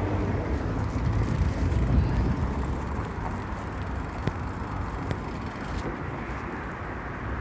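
Steady low rumble and noise of a bicycle being ridden along the road, with a few faint clicks.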